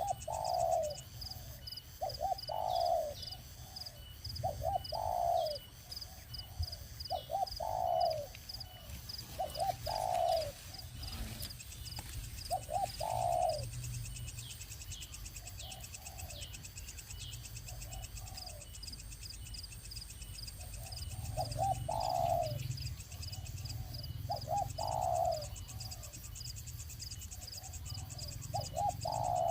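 A bird calling over and over: each call is a few quick notes and then a longer falling note, repeated about every two to three seconds, with a pause in the calls around the middle.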